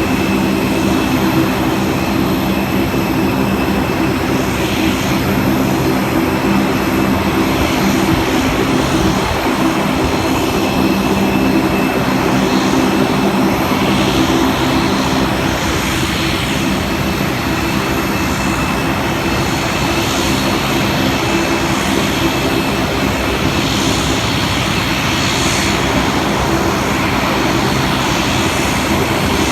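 Aircraft engine running steadily: a loud, even drone with several steady low hum tones and no change in pitch or level.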